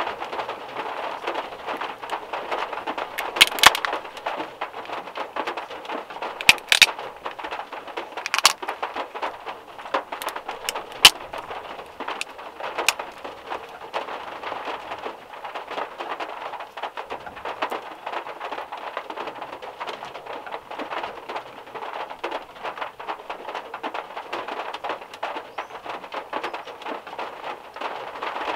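Steady rain drumming on a VW Beetle's metal roof, heard from inside the car. A few sharp clicks stand out in the first half, the loudest about three and a half seconds in and again around eleven seconds.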